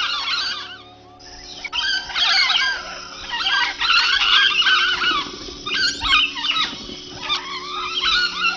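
Parrots chattering and squawking in rapid, overlapping high calls, in bouts with short pauses.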